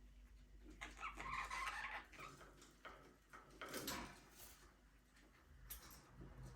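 Budgerigars chirping and chattering, with a flurry of calls about a second in and a few short, sharp chirps later on.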